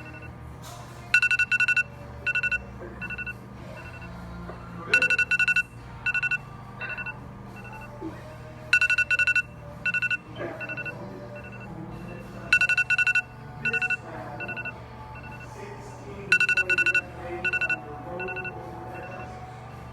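Electronic beeping in a repeating pattern: a quick run of loud, high beeps about every four seconds, with softer single beeps in between, over faint background murmur.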